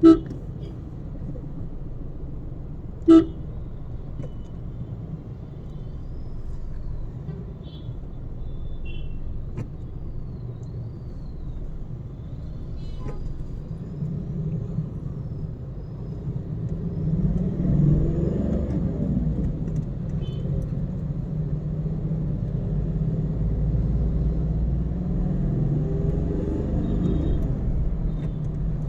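Steady low road and engine rumble of a car driving in traffic, with two short, loud car horn honks about three seconds apart near the start.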